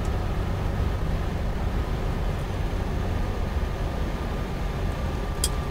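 Boeing 777-200 in flight heard from the flight deck: a steady low rumble with a faint steady whine above it, and a short click near the end.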